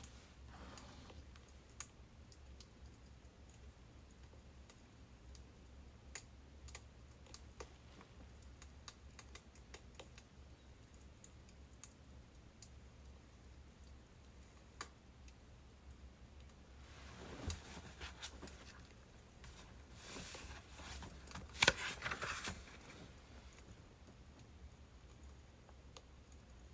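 Birch firewood crackling faintly, with sparse small pops and clicks over a low steady hum. Two brief, louder rustling bursts come about 17 and 21 seconds in.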